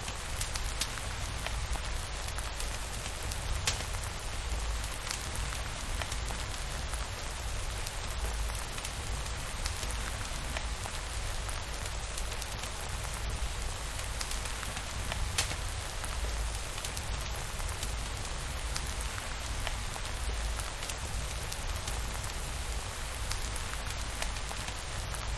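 Steady rain falling, a dense even patter with scattered sharp clicks and a constant low rumble underneath.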